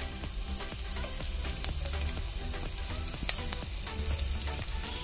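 Sliced green chillies and cumin seeds sizzling in hot oil in a nonstick frying pan, a tempering being fried, with scattered small pops and crackles.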